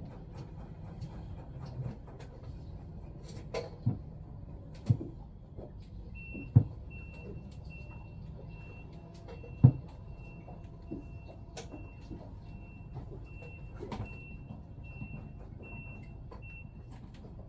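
Sharp knocks and clicks of small pump parts being handled and fitted during reassembly, over a steady low hum. From about six seconds in, a high beep repeats about every three-quarters of a second.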